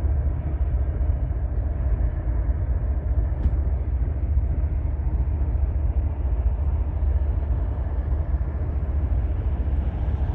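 Steady low rumble of a moving vehicle, deep and unchanging, with a fainter hiss above it.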